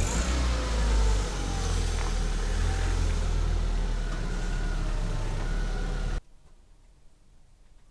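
Citroën Xsara's engine running, its pitch sagging and rising with the throttle. The sound cuts off suddenly about six seconds in.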